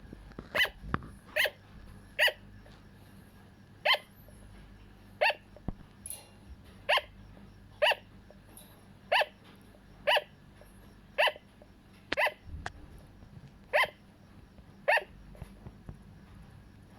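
Sugar glider barking: a series of short, sharp yaps, about one a second, a dozen or so in a row before they stop.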